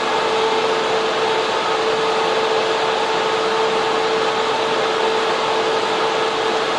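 Data center server room: the steady loud rush of server and air-cooling fans, with a constant whining hum running through it.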